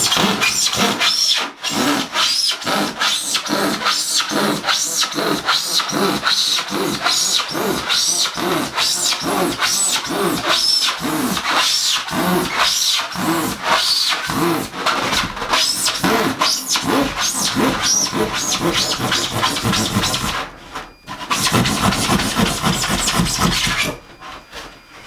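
Handsaw cutting through a timber board in rhythmic back-and-forth strokes, about three a second. There is a brief stop about twenty seconds in, then a few more seconds of sawing.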